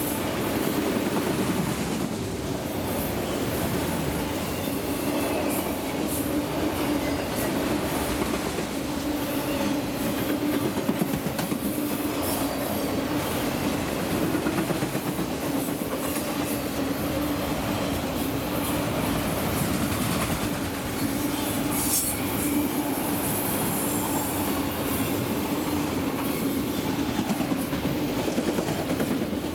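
A long train of enclosed autorack freight cars rolling past close by: steel wheels running on the rails with a steady rumble, a constant droning tone, and scattered clacks from the wheels.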